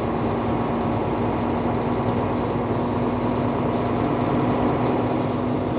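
Semi-truck diesel engine running steadily, heard from inside the cab: an even low rumble with a steady hum.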